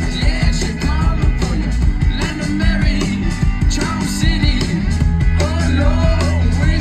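Live rock band playing loud, with a lead vocalist singing over heavy bass and drums, recorded from within the crowd.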